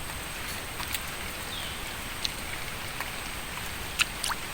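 Steady outdoor hiss with a few faint clicks and a brief high falling chirp about two seconds in.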